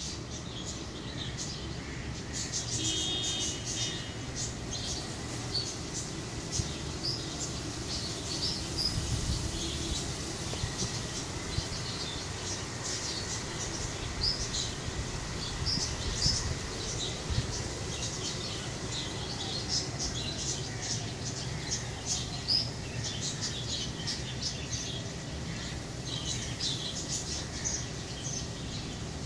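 Small birds chirping: many short, high chirps scattered throughout, with a brief steady tone about three seconds in.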